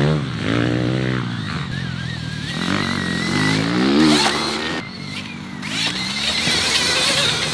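Stark VARG electric dirt bike being ridden: its electric motor and drivetrain whine rising in pitch as it accelerates, twice, with a thin high-pitched whine in the middle and gusts of tyre and dirt noise between.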